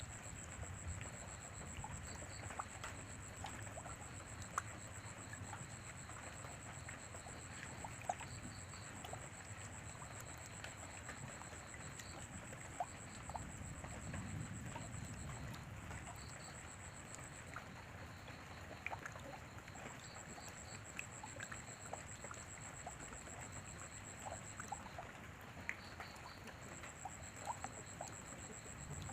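Steady light rain with scattered single drops ticking and dripping close by. A thin, high pulsing trill runs over it and breaks off briefly a few times.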